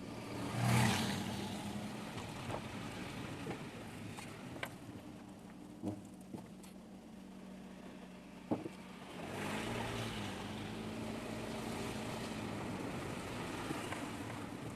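A car driving, recorded from inside: a steady engine note and road noise, with a few sharp clicks and knocks. The sound swells briefly about a second in, and from about nine seconds in it runs louder as the engine note dips and rises again.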